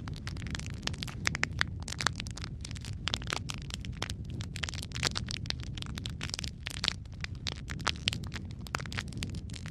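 Wood fire crackling: dense, irregular sharp pops and snaps over a steady low rumble of the flames.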